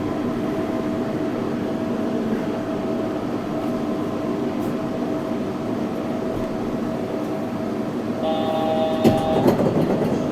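Yurikamome 7300-series rubber-tyred automated train running along its guideway, heard from inside the car: a steady running hum with constant motor tones. About eight seconds in, a higher set of tones joins, and a few sharp knocks follow about a second later.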